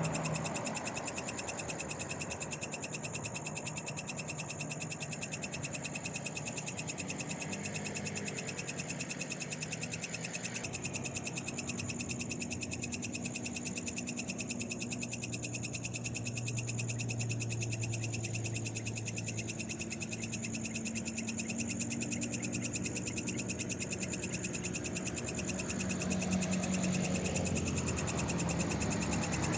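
Night chorus of frogs with a steady, rapidly pulsing high trill throughout. A low hum swells and fades in the middle.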